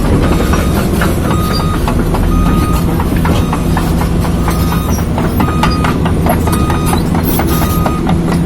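A tracked excavator travelling, its diesel engine running steadily while the steel track links clank and click over and over. A short high beep repeats about once a second.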